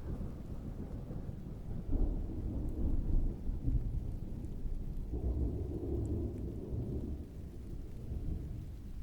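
Distant thunder rumbling low and rolling, swelling about two seconds in and again from about five to seven seconds, over steady rain.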